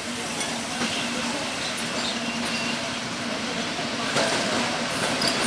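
Diesel-hauled express passenger train running into a station: a steady locomotive engine hum over rail and wheel noise, growing gradually louder as it approaches, with scattered clicks from the wheels.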